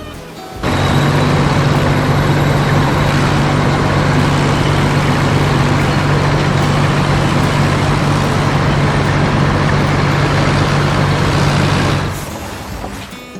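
A heavy vehicle engine runs steadily with a low, even hum. It starts abruptly about a second in and fades out near the end.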